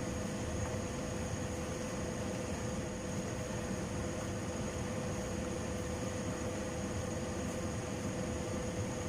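Steady machine hum and hiss with a constant mid-pitched tone and a fainter high whine, unchanging throughout.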